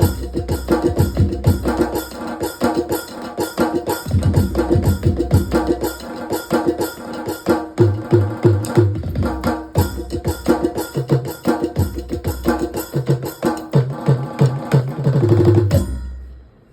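Roland SPD-20 Pro electronic percussion pad played through its sound output: a fast, dense rhythm of sampled folk drums and wood-block-like hits with pitched low drum notes. It stops sharply near the end and rings off.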